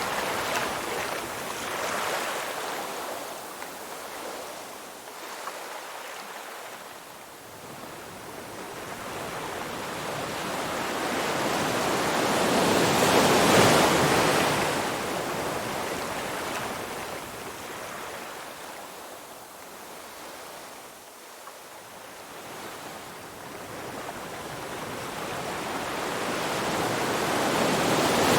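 Ocean waves, a rushing surf that swells and falls away slowly. One wave builds to its loudest about halfway through, and another rises near the end.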